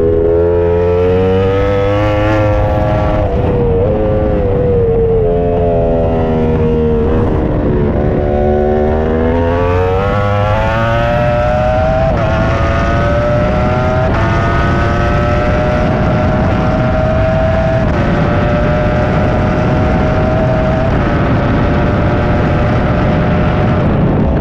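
Onboard sound of a Ducati superbike engine at racing speed, revving up and dropping back over the first several seconds. It then pulls hard through several quick upshifts into a long high-revving run, and backs off near the end.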